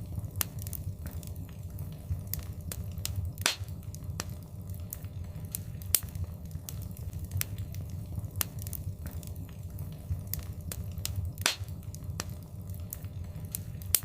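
Wood fire in a fireplace crackling, with many small snaps at irregular intervals and a few louder pops, over a low steady rumble.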